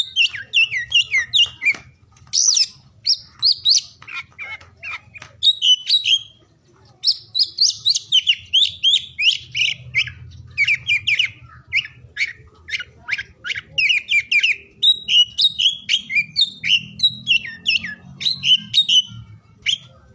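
Oriental magpie-robin (kacer) singing: a fast, continuous run of varied whistled and chattering notes, with brief pauses about two and six seconds in.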